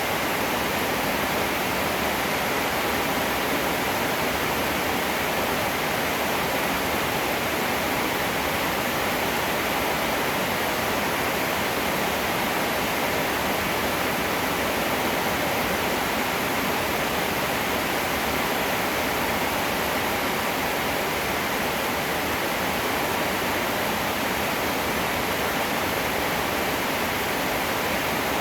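Heavy rain falling in a steady, unbroken hiss, with no thunder.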